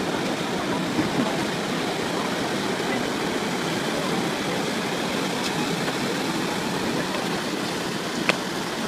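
Rushing water of a tidal bore, the incoming tide pushing a moving wall of water up a river, a steady even roar. A single sharp click near the end.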